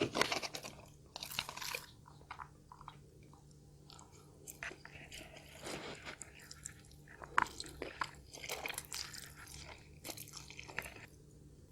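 Close-miked eating: irregular chewing and crunching of food in the mouth, with some biting.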